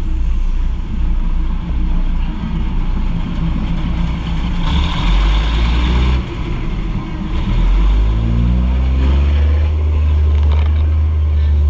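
Diesel train engine running, its pitch rising about eight seconds in and then holding steady, with a burst of hiss about five seconds in that lasts a second or so.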